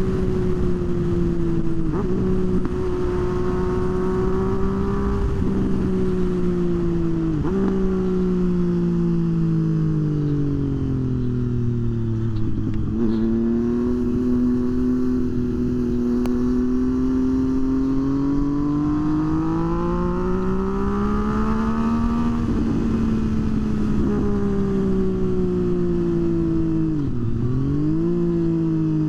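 Motorcycle engine running under way, its pitch rising and falling slowly with the throttle, with a few brief sudden dips in pitch.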